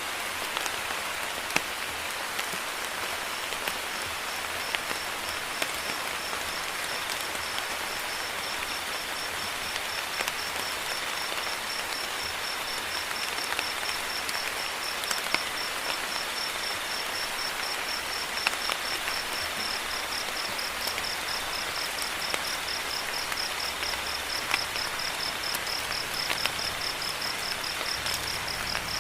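Steady rain with scattered drop taps, and a cricket's fast pulsing high trill that comes in a few seconds in and grows louder toward the end.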